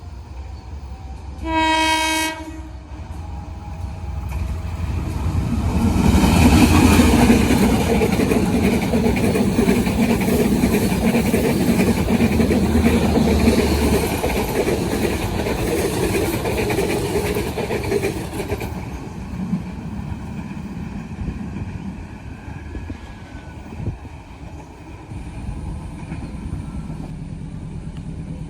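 Passing train: one short horn blast about two seconds in, then the train going by on the track with wheels clattering over the rails, loudest a few seconds later and dying away after the train has passed.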